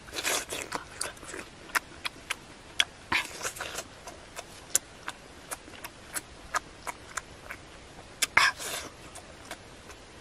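Close-up eating of ripe jackfruit flesh: wet chewing and lip-smacking clicks, about two or three a second, with three longer, noisier stretches of biting and sucking near the start, about three seconds in and about eight seconds in.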